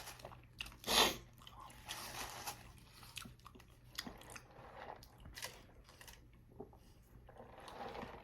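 A person biting into and chewing a Wendy's Baconator bacon cheeseburger close to the microphone, with one louder bite about a second in and then soft, scattered mouth clicks as he chews.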